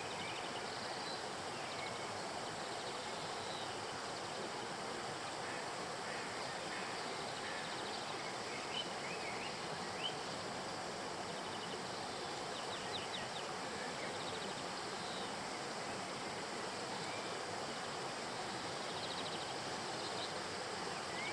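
Steady rush of a flowing river, with short bird chirps scattered through, a few in quick runs about two-thirds of the way in.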